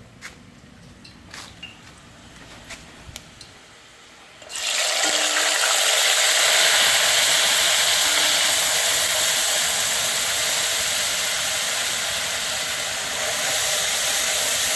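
A few faint clicks, then about four and a half seconds in a wet blended herb curry paste goes into hot oil and sizzles loudly and steadily as it starts to fry.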